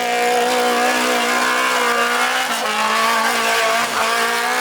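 Off-road 4x4 engine held at high revs, running steadily, with its pitch dipping briefly about two and a half seconds in and again near the end.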